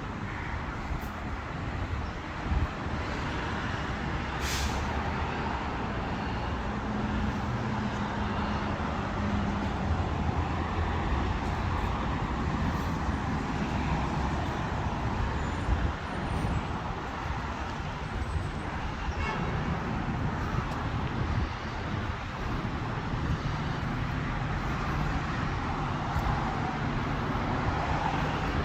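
Steady road traffic with heavy vehicles passing, engines rumbling low, and a short hiss about four seconds in.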